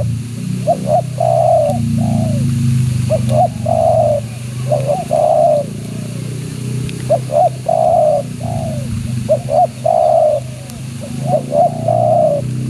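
Spotted dove (tekukur) cooing over and over, about five phrases, each a couple of short notes followed by a longer rolling coo. A steady low hum runs underneath.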